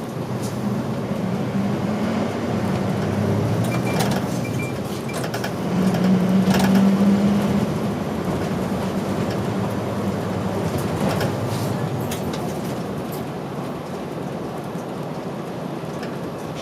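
Route bus under way, heard inside the cabin: its diesel engine drones steadily over road noise, with a few knocks and rattles from the body. The engine note swells about six seconds in, then settles again.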